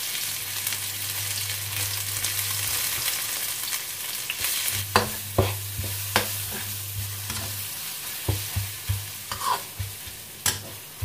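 Ground spice paste sizzling in hot oil in a wok as it is stirred, the sizzle slowly dying down. From about five seconds in, a metal spatula scrapes and knocks against the wok several times.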